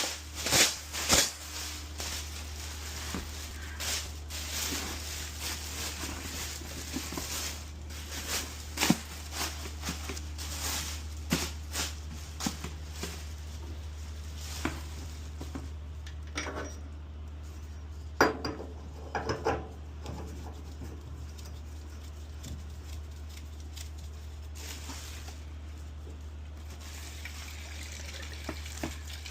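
Metal kitchen parts and utensils being handled, with scattered knocks and clatters, a few of them ringing, over a steady low hum.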